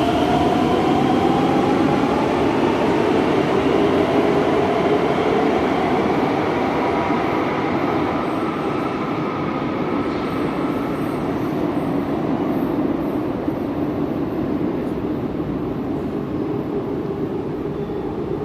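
Madrid Metro electric train running, its traction motors giving a whine that climbs in pitch over the first few seconds and then keeps rising slowly as it gathers speed, over a steady rumble of wheels on rail.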